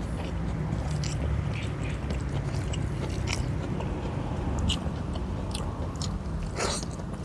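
Close-up mukbang eating sounds: a man chewing rice and fish eaten by hand, with scattered short mouth clicks, over a steady low rumble.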